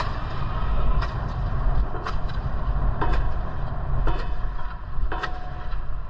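Wind rumbling on the microphone of a moving bicycle, with a sharp click about once a second, six in all.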